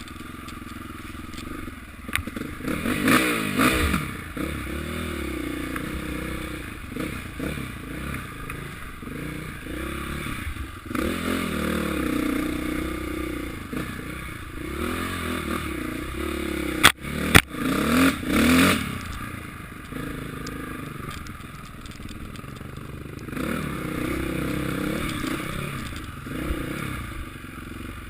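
Motocross bikes revving, the engine pitch rising and falling several times as they ride by, with a few sharp clicks a little past the middle.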